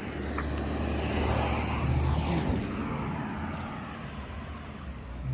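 A motor vehicle passing by, its rumble and tyre noise building to a peak about two seconds in and then fading.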